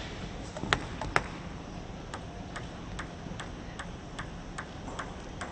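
Celluloid-free plastic table tennis ball bounced repeatedly in an even rhythm, about two and a half light ticks a second, after two sharper clicks about a second in.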